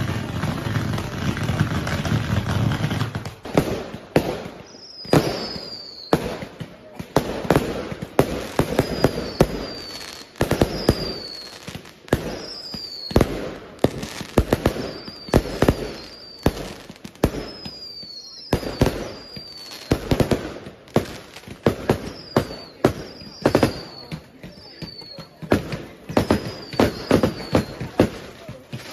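Fireworks going off: a long run of irregular sharp bangs, sometimes several a second, beginning about three seconds in, with short falling whistles after some of the bursts.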